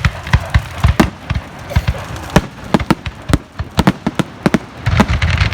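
Fireworks going off in rapid, irregular succession: a string of sharp bangs and cracks, several a second, thickening into a denser crackle near the end.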